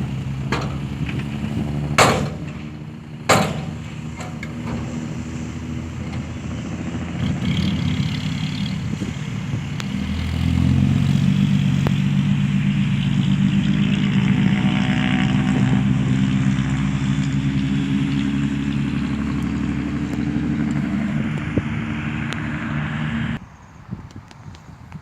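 Dump truck's diesel engine running, with two sharp bangs about two and three seconds in. About ten seconds in it revs up and runs louder and harder, then cuts off suddenly near the end.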